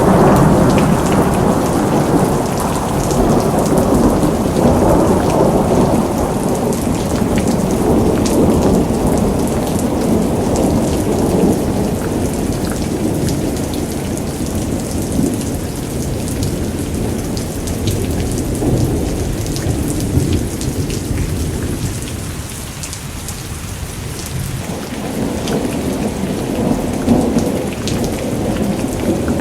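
Thunderstorm: long rolling thunder rumbling almost without a break, over steady rain with scattered drop ticks. The rumble eases about two-thirds of the way through, then builds again near the end.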